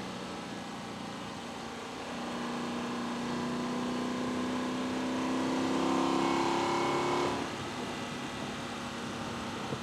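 Intake of a Lexus LC 500's 2UR-GSE V8, heard from a microphone in the engine bay. It drones steadily, then pulls under throttle about two seconds in, rising slowly in pitch and getting louder for about five seconds. The throttle closes suddenly and it falls back to a steady drone.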